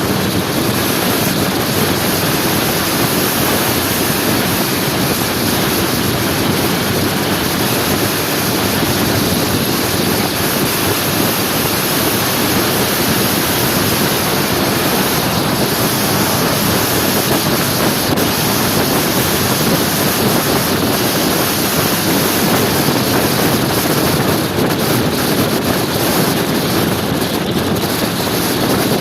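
Wind rushing over the microphone of a moving motor scooter, mixed with steady engine and road noise at cruising speed.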